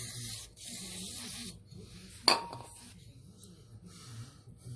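Two hissing spray blasts while a small-engine carburetor is cleaned, the second lasting about a second. About two seconds in comes one sharp metallic clink with a short ring.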